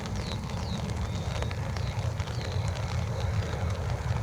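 Steady low rumble of a departing jet freighter's engines at takeoff power.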